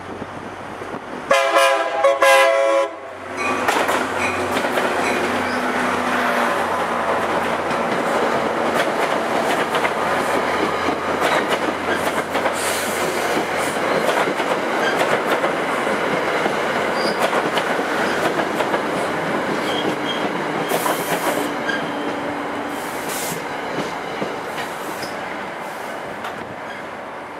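NJ Transit GP40PH-2A diesel locomotive sounds a short horn blast about a second in, then its train of Comet V coaches runs past close by, wheels clattering over the rail joints. A few brief high wheel squeals come near the middle and later, and the sound fades near the end as the train slows into the station.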